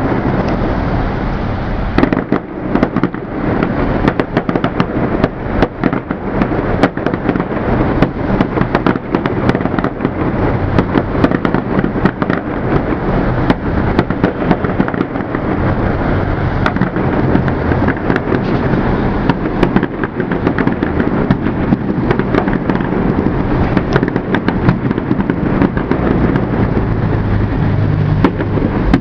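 Fireworks display in a continuous barrage: dense, rapid bangs and crackles overlapping one another without a break.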